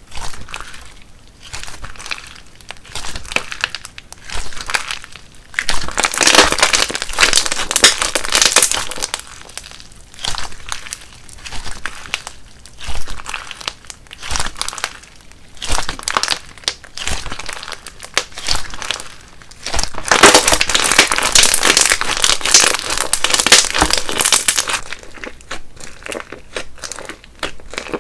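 Crunchy slime being squeezed and kneaded by hand, giving dense crackling and popping. Two longer, louder bouts of crackling come about six seconds in and about twenty seconds in.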